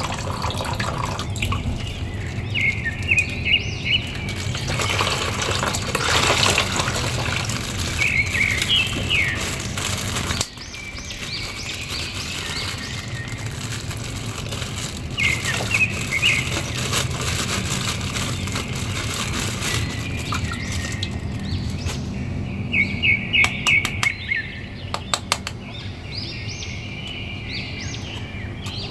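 Birds chirping in short calls every few seconds over steady background noise. Near the start, water splashes into a plastic basin as it is poured from a plastic bag. Near the end comes a quick run of crinkling clicks from plastic wrapping being pulled off a toy figure.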